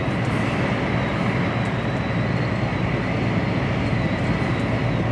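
HGV container lorry driving at road speed: steady engine and road noise with no change in pitch.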